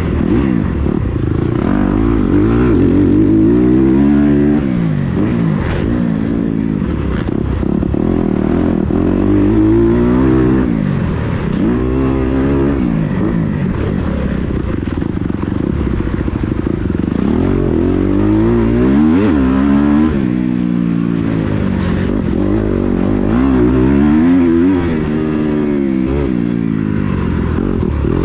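Kawasaki KX250 motocross bike engine revving hard and easing off over and over, its pitch climbing and dropping every couple of seconds as the bike accelerates and backs off around the track.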